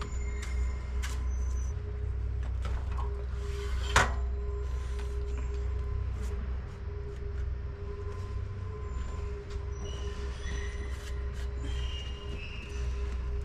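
Home-built 6 ft wide bandsaw mill running, a steady low drone with a steady hum. Scattered light clicks and brief squeaks sound over it, with one sharp knock about four seconds in.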